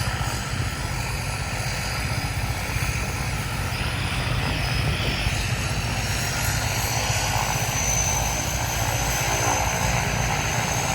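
Twin-turboprop commuter plane's engines running up for takeoff: a steady propeller drone with a pulsing low end and a high whine that rises slowly in pitch over the second half, growing slightly louder.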